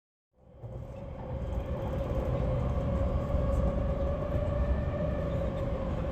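A train running: a steady low rumble with a steady mid-pitched tone over it. It fades in about half a second in and grows over the first two seconds.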